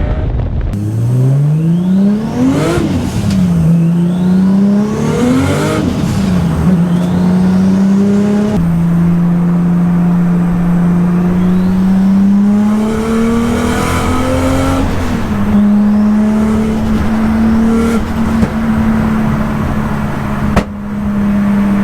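Big-turbo Nissan Skyline R33's straight-six engine under way, pulling up through the revs twice with a drop in pitch at each gear change, then cruising at steady revs with one slower rise and fall about two-thirds of the way through.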